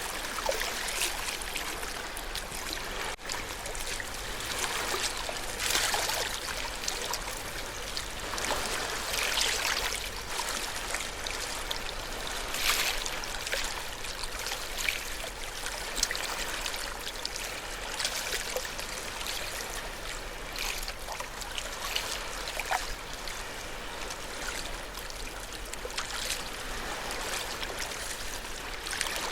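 Ocean waves washing on a shore: a steady rush of water that swells louder every few seconds, with short splashy ticks through it.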